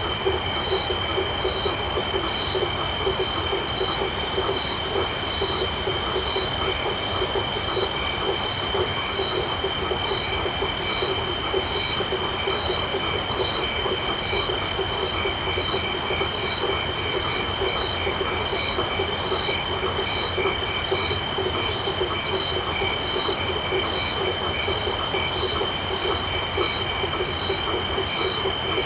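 Night chorus of crickets and frogs: several steady high insect trills, one of them pulsing evenly about once every 0.7 seconds, over a dense, rapid, lower chattering of calling frogs.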